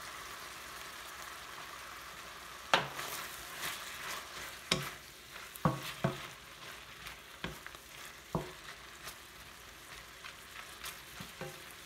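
Chicken stir-frying in a stainless steel wok, a steady sizzling hiss. From about three seconds in, several sharp knocks and scrapes come as it is stirred and seasoned.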